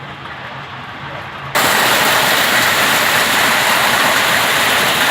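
Heavy summer downpour. It sounds muffled at first, then turns suddenly much louder about a second and a half in, becoming a steady, full rush of falling rain.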